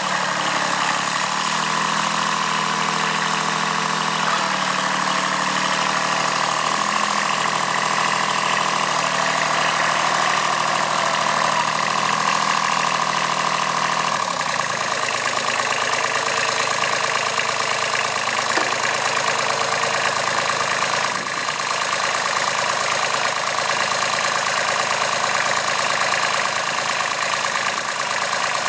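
Kubota B7001 tractor's D850 three-cylinder diesel running steadily, its note dropping lower about halfway through and holding there.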